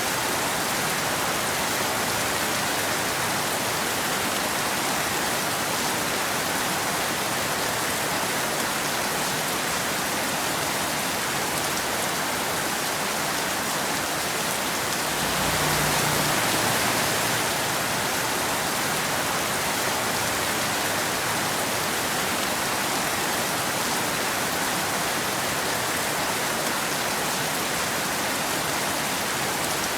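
Steady rain falling, an even hiss. About halfway through it briefly swells a little louder, with a short low rumble underneath.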